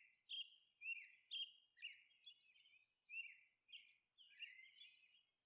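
Faint bird chirping: a steady run of short chirps, a couple each second.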